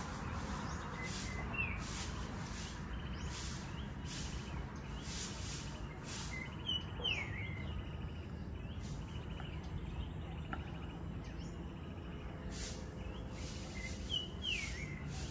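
A bird giving a short falling chirp three times, about 2 seconds in, about 7 seconds in and near the end, over a steady low rumble and a high hiss that swells about once a second.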